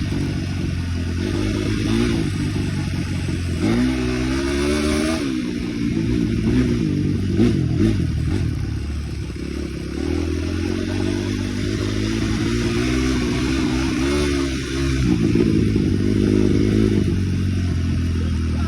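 Dirt bike engine running while ridden, its pitch climbing and dropping back again and again as the throttle is opened and closed.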